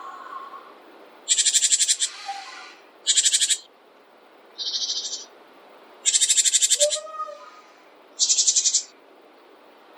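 A small songbird giving five short, rapid, buzzy trills a second or two apart, each lasting under a second. A few faint lower whistled notes sit between them over a light steady hiss.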